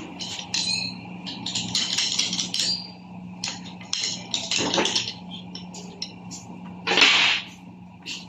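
Metal clinks and light taps of hand tools on Toyota Hilux gearbox parts during disassembly, with a steady low hum underneath and a louder, short rush of noise about seven seconds in.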